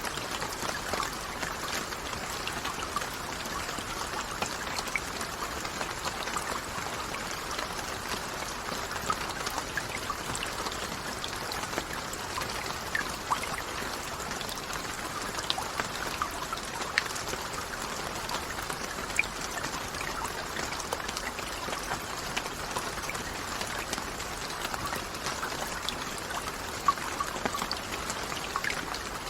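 Steady rainfall: an even wash of falling water with many individual drops heard as sharp ticks, a few louder than the rest.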